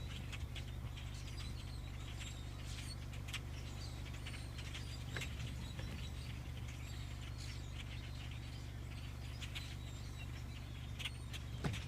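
A large migrating flock of birds calling: a continual scatter of short chirps and calls from many birds at once, over a steady low hum.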